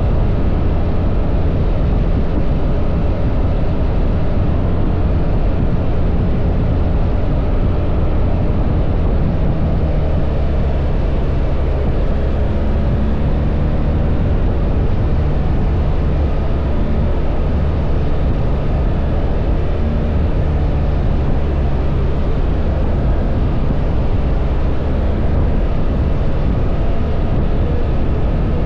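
BMW R1300 GS boxer-twin engine running steadily on the move, under a continuous low rush of wind noise.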